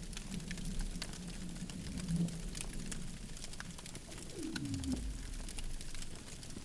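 Campfire crackling, with scattered sharp pops from the burning wood. A low steady tone sounds for the first two seconds or so, and a short falling tone comes about four and a half seconds in.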